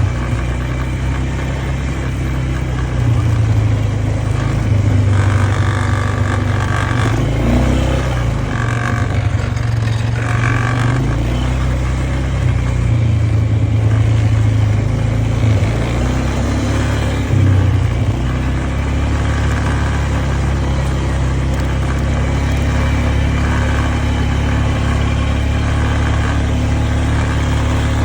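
An engine running steadily and loudly, its note rising and falling a little as the load changes.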